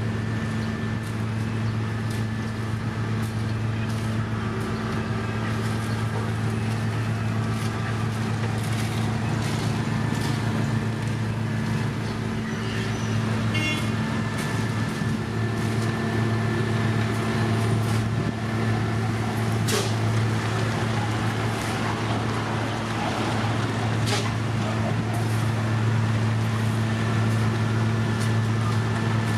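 Heavy construction machinery's diesel engine running steadily at constant speed, with a brief rapid ticking about halfway and a couple of sharp knocks in the second half.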